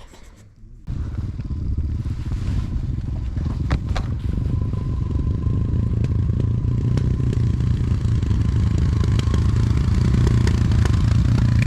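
Motorcycle engine comes in suddenly about a second in and runs steadily with a low rumble, growing a little louder.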